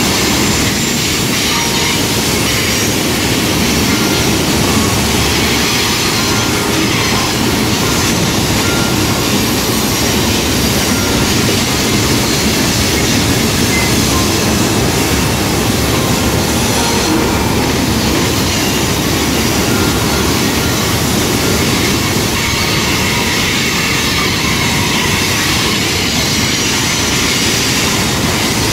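Freight train of loaded ballast hopper cars rolling past at steady speed: a continuous rumble of steel wheels on rail, with a faint, intermittent wheel squeal.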